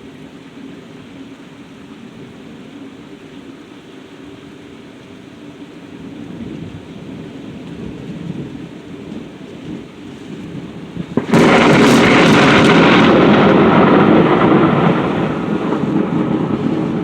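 Thunder: a low rumble swells, then a sudden loud thunderclap crashes about two-thirds of the way in, staying loud for a few seconds before rolling off. Steady rain underneath.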